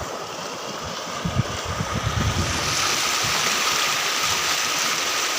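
River water flowing with a steady rush that grows louder and brighter about halfway through. Low rumbles of wind on the microphone come and go in the first half.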